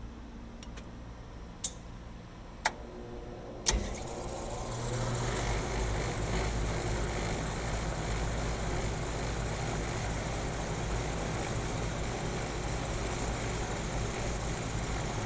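A few sharp clicks, then about four seconds in the rooftop A/C unit's fan motor starts, builds up over about a second and runs steadily with a low hum.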